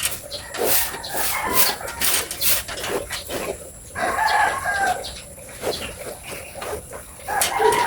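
A rooster crowing about four seconds in and again near the end, over a scatter of sharp clicks and knocks.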